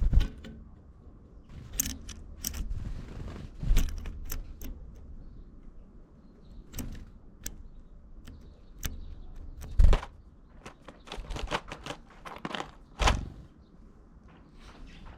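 A tit pecking and hammering at food, an irregular series of sharp taps and knocks, with a few louder thumps about four, ten and thirteen seconds in.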